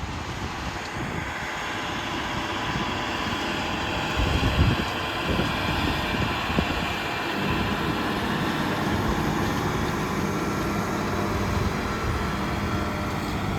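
A big red tractor's engine running steadily close by, growing louder over the first few seconds and then holding at an even level.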